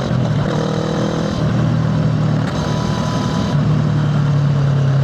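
Motorcycle engine running at steady low revs.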